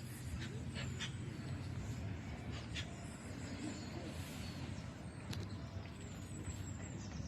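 Outdoor ambience: a steady low rumble with a few faint clicks, and a few short, high, thin bird calls sliding downward in pitch in the second half.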